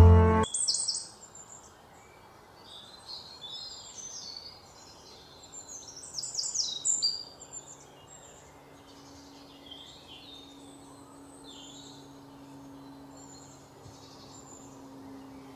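Several wild birds chirping and calling in short, high-pitched phrases, busiest about a second in and again around six to seven seconds in.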